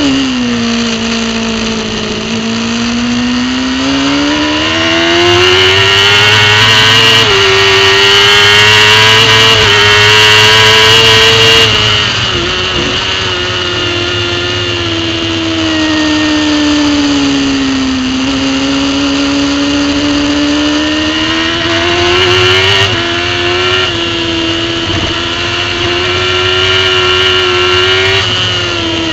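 Racing superbike engine heard on board at speed, its note climbing under acceleration with small steps in pitch at the gear changes. It is loudest up to about 12 seconds in, then drops sharply as the bike slows for a corner, and later climbs again through more gear changes.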